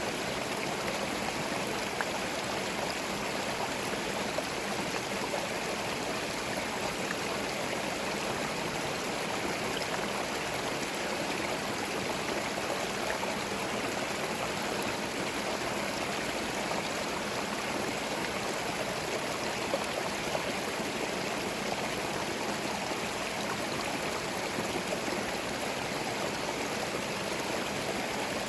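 Small forest stream flowing steadily over stones, a continuous babble and rush of water with occasional small splashes.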